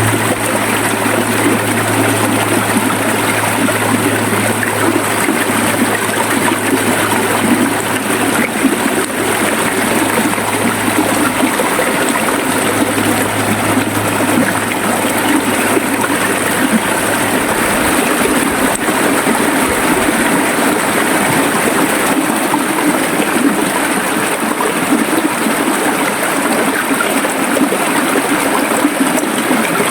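River water flowing steadily, an even rushing sound without breaks. A low hum lies under it for the first half and stops a little past halfway.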